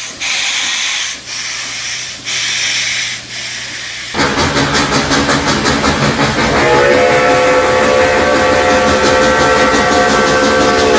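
Steam locomotive sounds: heavy hissing chuffs about once a second, then from about four seconds in a sudden switch to fast, even chuffing. From about six seconds a long, steady chime steam whistle sounds over the chuffing.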